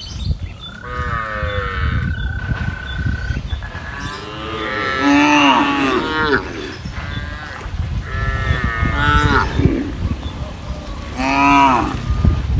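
Cattle mooing: about four long, drawn-out moos from the herd, rising and falling in pitch and some overlapping, the loudest about halfway through and near the end. A steady high tone sounds for a couple of seconds early on.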